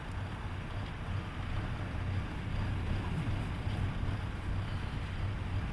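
Steady low rumble and hiss of a vehicle in blizzard winds: engine and road noise mixed with wind, with no distinct events.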